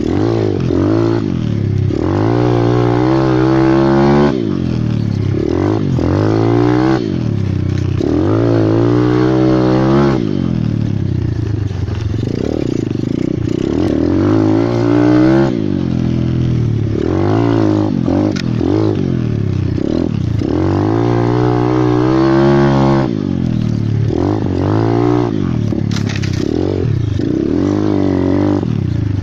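Single-cylinder pit bike engine being ridden hard, revving up and dropping back again and again as the rider accelerates, shifts and eases off, with about a dozen rising sweeps in pitch.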